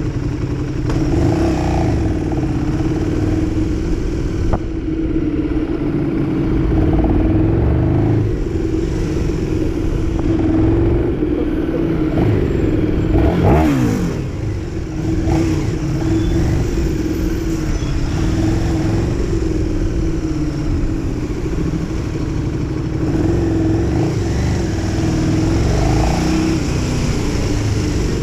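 KTM 1290 Super Duke R's big V-twin running at low revs in city traffic, idling at a stop and then pulling away and riding slowly. The engine note stays steady, with a short falling sweep in pitch about halfway through.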